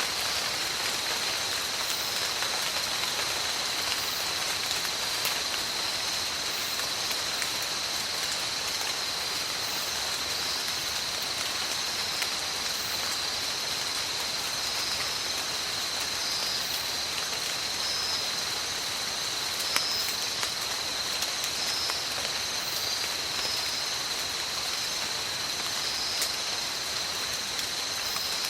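Steady tropical rain falling in forest, an even hiss of rain on leaves and surfaces with scattered drops. A thin, steady high tone and short high chirps repeat above the rain.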